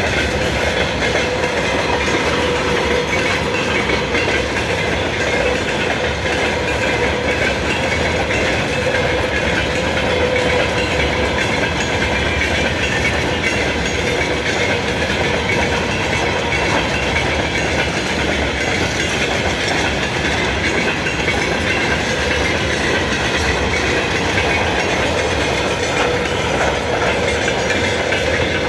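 Railway cars of a passing train rolling by at steady speed: a loud, even rumble of wheels on rails with a faint ringing tone held throughout.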